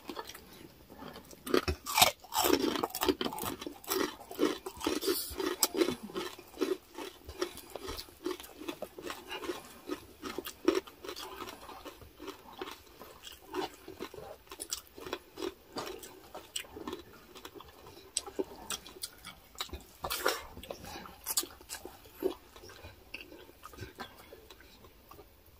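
Chewing and crunching of crispy deep-fried pork belly (chicharon bagnet): many sharp crackles, densest in the first few seconds, with a louder crunch about twenty seconds in.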